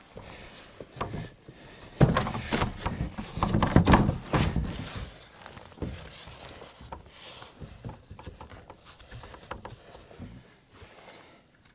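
The portable cabin's wall panels being handled and set in place: a run of knocks and thunks, loudest about two and four seconds in, then lighter knocking.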